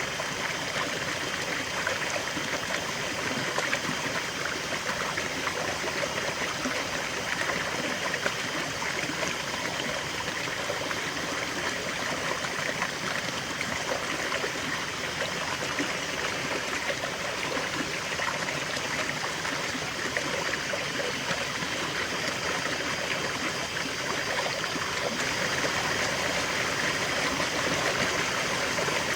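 River water flowing steadily over stones, a continuous rushing and babbling with fine splashing detail.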